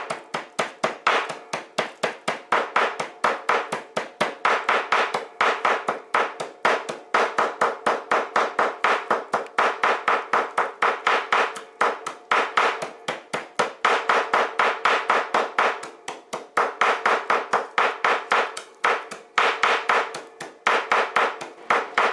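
Knife chopping rapidly on a cutting board, mincing garlic: a fast, even run of sharp knocks, about five a second, broken by a few short pauses.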